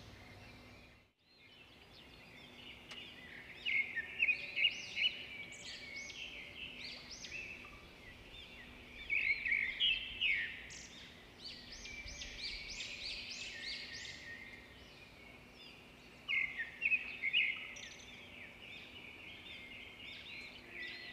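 Birds chirping and calling in several busy spells of quick repeated notes, over a faint steady low hum.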